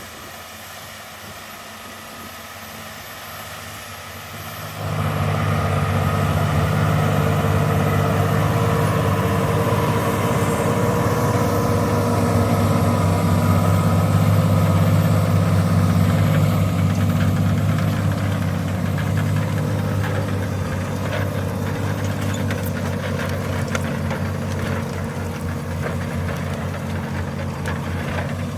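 Valtra Q Series tractor engine running steadily while pulling a five-furrow plough. It jumps sharply louder about five seconds in, then eases off gradually over the second half.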